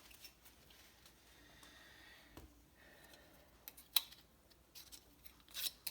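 Light clicks and taps of small engine parts and tools being handled on a workbench, with one sharp click about four seconds in and a short run of clicks near the end.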